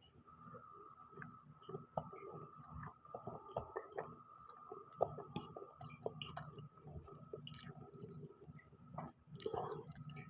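A person chewing a mouthful of noodles, with many small, irregular wet mouth clicks and smacks.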